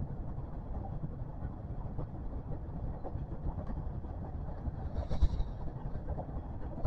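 Electric commuter train running along the track, heard from inside: a steady low rumble of wheels on rails with scattered light clicks. A brief high hiss about five seconds in.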